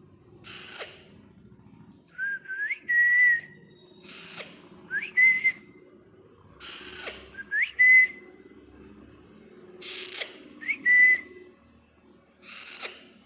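Young Alexandrine parakeet calling: short harsh rasps, each followed by a rising whistle that levels off into a held note. The pattern repeats about every three seconds, four whistles in all.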